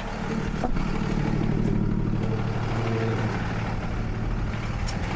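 Truck engine idling steadily, with a couple of faint clicks.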